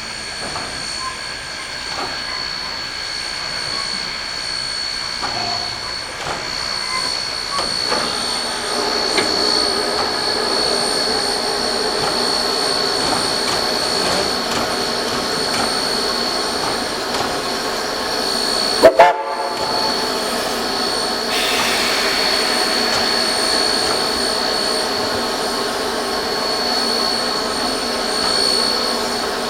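Narrow-gauge K-37 2-8-2 steam locomotive #493 running with a train of empty log cars, a steady train noise throughout. About two-thirds of the way through there is a sharp click and a brief dropout.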